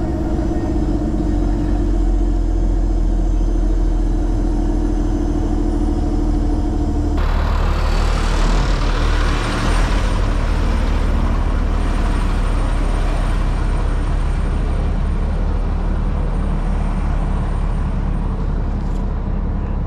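A large vehicle's engine running steadily with a low hum. About seven seconds in, a broad rushing noise joins it.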